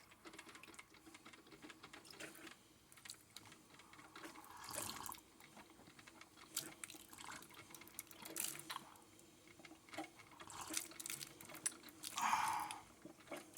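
Mainstays 12-cup drip coffee maker starting to brew: faint, irregular dripping and sputtering of hot water as it begins to flow, over a faint steady hum.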